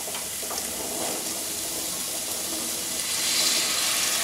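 Hot coconut oil in a wok sizzling as boiled black chickpeas are tipped into it, the hiss growing louder about three seconds in.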